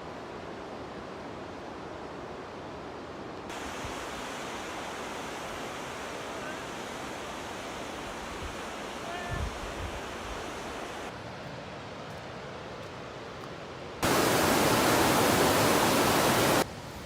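Steady rushing noise of rain. The level changes abruptly a few times and is loudest for about two and a half seconds near the end.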